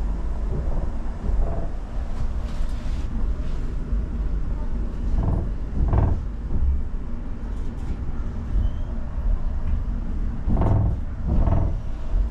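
Steady low rumble of a passenger train carriage in motion, heard from inside the coach.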